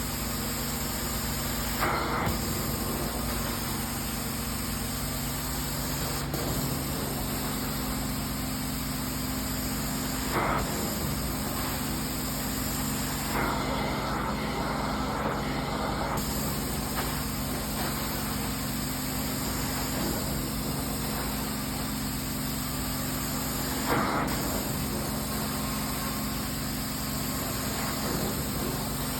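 Carpet-cleaning extraction equipment running: a steady motor hum with a constant hiss, broken by a few short surges of spraying and suction, one of them longer, about halfway through.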